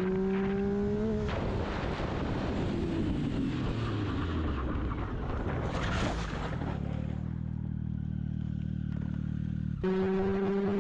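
Motorcycle engine pulling steadily, then from about a second in a long rough noise as the bike goes down in a crash, the engine's revs falling away, with a sharp hit about six seconds in. The engine then runs on at idle with a low, even beat. Near the end a motorcycle engine is heard running at steady speed again.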